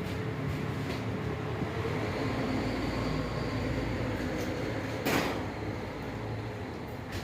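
Steady low mechanical hum, like an engine running, with a single sharp clunk about five seconds in.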